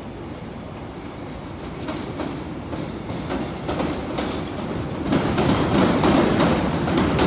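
CTA 'L' elevated train approaching over the Tower 18 interlocking, its steel wheels clacking over rail joints and switches. The clacking grows louder, stepping up sharply about five seconds in as the train draws close.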